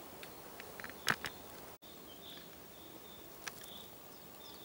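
Faint forest ambience with a few distant bird chirps, broken by a sharp click about a second in and a softer one later; the sound drops out for an instant in between.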